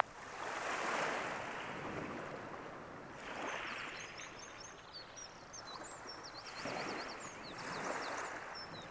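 Surf washing on a beach in slow swells, the loudest about a second in and again near the end. Birds call over it with short high chirps and quick trills from a few seconds in.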